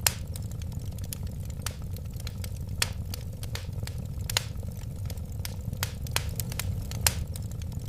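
Wood fire burning, with frequent irregular crackles and pops over a steady low rumble of the flames. A few sharper pops stand out: one just after the start, one near three seconds, one past four seconds and one about seven seconds in.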